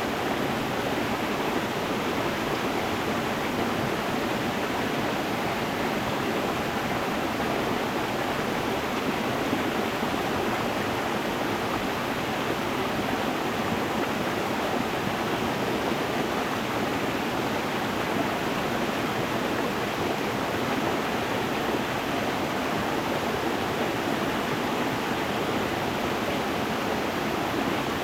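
Stream water rushing and splashing over stones in a steady, even flow.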